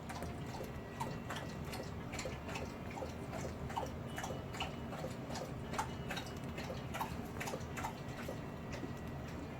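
Parrots feeding from a shared plate: irregular clicks and taps of beaks on food and the plate, several a second, with short soft chirps.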